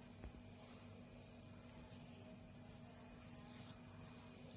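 Cricket trilling: one steady high-pitched note pulsing rapidly and evenly, without a break. A few faint brief rustles sound over it.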